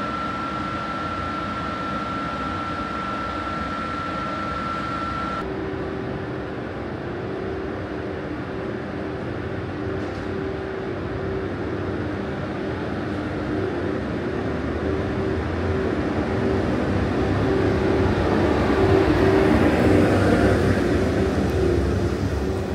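Double-deck TGV inOui high-speed train pulling out of the station and passing close by at low speed, a steady hum that grows louder as it approaches and is loudest near the end as the cars go by. A steady high tone cuts off about five seconds in.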